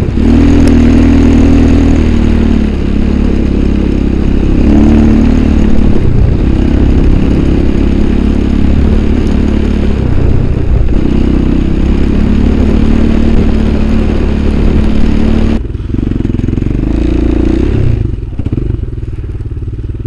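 Engine of a vehicle being ridden, running hard with the revs rising and falling. About sixteen seconds in the throttle eases and it settles to lower, quieter running.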